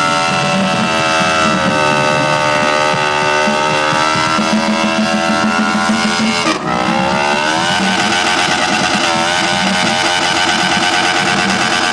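Motorcycle engine held at high, steady revs during a burnout. About halfway through the revs drop sharply and then climb back up and hold.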